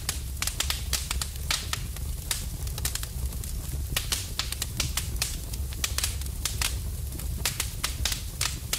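Wood fire burning in a fireplace: irregular crackles and pops over a low, steady rumble.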